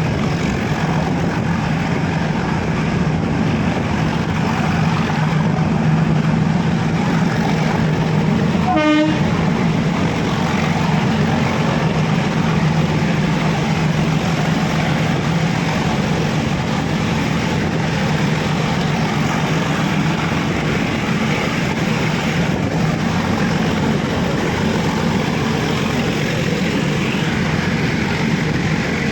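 Nilgiri Mountain Railway train running, a steady noise of wheels and carriages on the track, with one short horn toot about nine seconds in.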